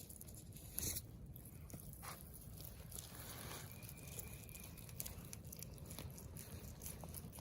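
Faint wet squishing and soft tearing as raw wild turkey tenderloin is worked loose from its tendon by hand and knife, with small scattered clicks and one short louder tick about a second in.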